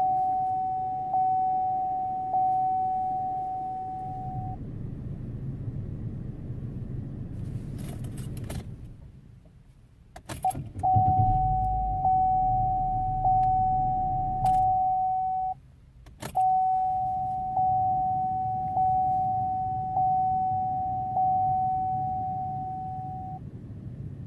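Car dashboard warning chime ringing as a single repeated ding about once every 1.2 seconds, broken off twice by a jangle of keys and clicks at the ignition, over a low engine hum that drops out in the same gaps.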